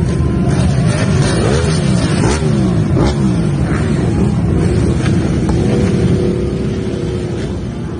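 Several motorcycle engines revving and riding past together, their pitches rising and falling over one another. A steady held tone joins in for about two seconds near the end.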